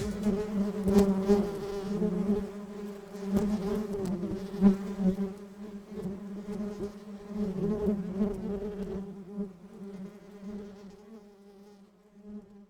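Honeybees buzzing in a steady, wavering drone that fades out near the end.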